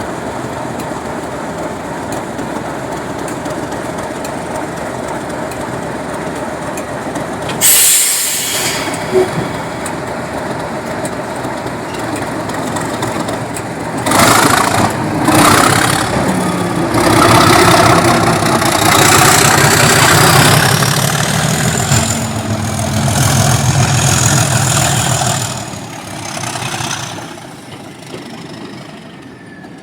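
Diesel train running with a steady engine rumble. There is a sudden sharp hiss about eight seconds in, then a louder stretch of engine and rail noise from about fourteen seconds that dies away near the end.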